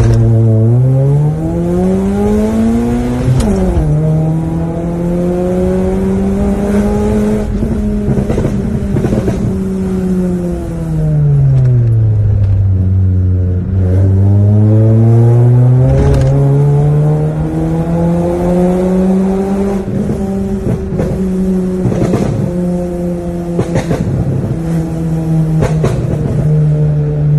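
Honda Brio's four-cylinder engine running through an aftermarket Alpino Elgarage full exhaust system, its revs changing throughout. The pitch climbs over the first three seconds and drops sharply, holds high, sinks low about twelve seconds in, then climbs again and holds.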